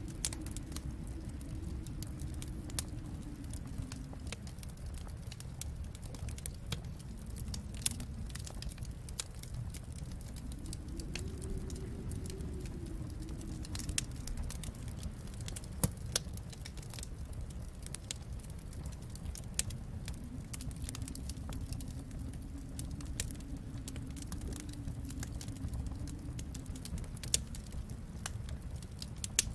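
Wood fire in a fireplace crackling, with scattered sharp pops over a low steady rumble that slowly swells and eases.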